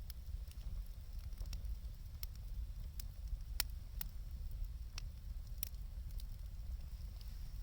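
Wood fire burning, crackling with irregular sharp pops, the loudest about three and a half seconds in, over a steady low rumble.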